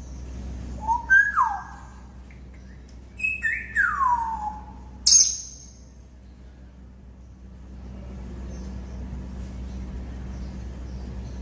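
African grey parrot whistling: two separate whistles, about a second and three seconds in, each jumping up and then gliding down, followed by a short, sharp, high-pitched call about five seconds in.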